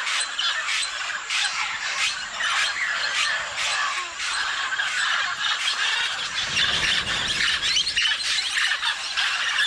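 A flock of parrots squawking, many short harsh calls overlapping without a break.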